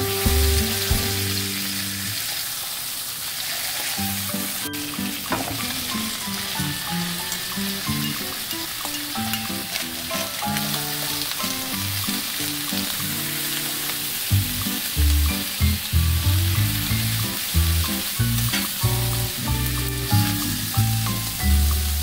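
Whole squid and cut vegetables sizzling in butter in a frying pan. Background music plays over it, with a heavier bass line from about two-thirds of the way in.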